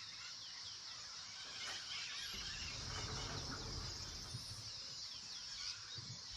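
Faint outdoor nature ambience: many small overlapping chirps and calls over a steady high hiss, with a low rumble underneath.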